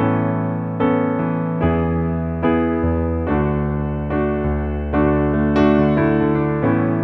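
Background music: an electric piano playing sustained chords, a new chord struck about every 0.8 seconds and fading between strikes, with no singing.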